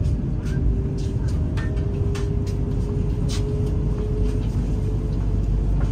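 Cabin noise inside a Vande Bharat Express electric train running at speed: a steady low rumble with a faint steady hum and scattered light clicks.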